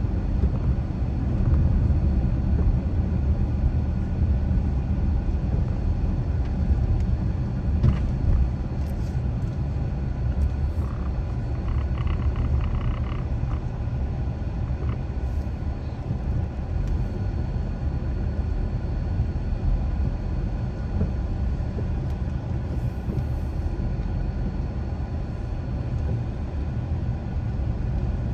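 Car driving along a road, its engine and tyres making a steady low rumble, with a few faint brief sounds over it.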